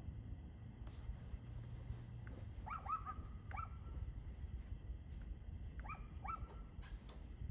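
A dog barking faintly: four short, high barks in two pairs about three seconds apart, over a low steady rumble.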